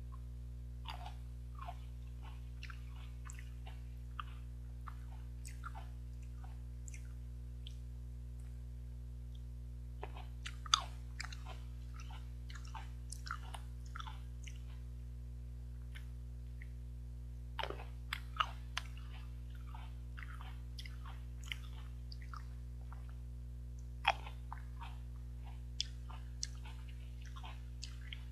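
Someone eating seedless green grapes: scattered wet chewing clicks and crunches in short clusters, the loudest a little over ten seconds in and near 24 seconds. A steady low hum runs underneath.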